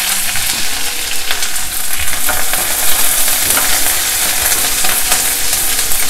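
Chopped green chillies and curry leaves frying in hot sesame oil in a stainless steel kadai: a steady sizzle with many sharp crackles, while a wooden spatula stirs them.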